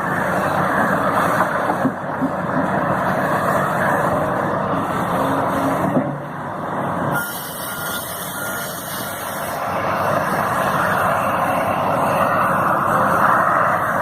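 Heavy construction machine's diesel engine running steadily, with a break in the sound about halfway through, then a few short high beeps like a reversing alarm.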